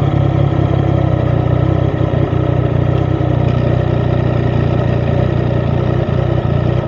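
Yamaha XSR900's CP3 three-cylinder engine idling steadily through an Akrapovic titanium exhaust.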